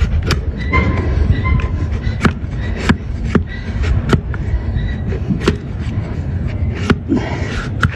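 Donkey hoof being trimmed: sharp, irregular knocks and cracks of the tool on the hoof, roughly one a second, over a steady low rumble.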